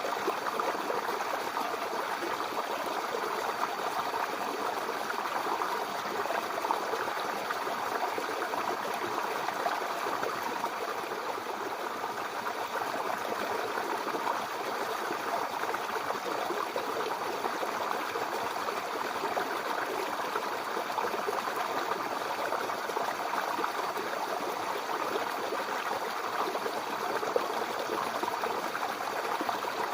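Babbling brook: a small stream of water running and burbling steadily.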